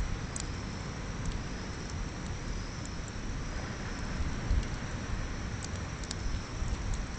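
Beach bonfire crackling, with scattered sharp pops over a steady low rumble.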